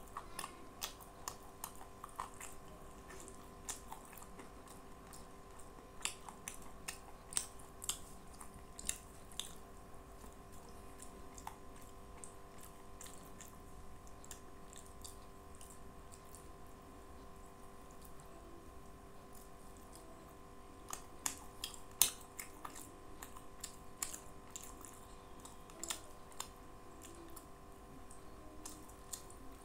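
Close-up eating sounds: wet mouth clicks and smacks of chewing rice and curry, with fingers squishing rice on a tray, coming in scattered clusters of sharp clicks. A faint steady hum runs underneath.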